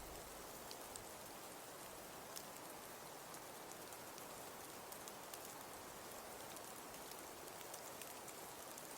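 Faint, steady hiss of light rain with scattered small ticks of drops.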